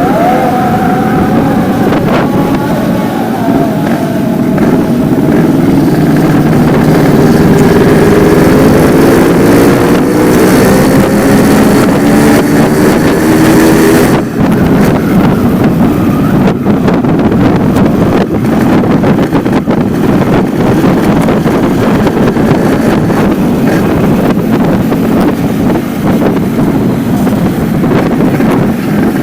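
Yamaha RX-King's two-stroke single-cylinder engine running through a stock silencer that keeps only its main baffle, its note climbing steadily as it gathers revs. The sound changes abruptly about halfway through and then runs on more steadily.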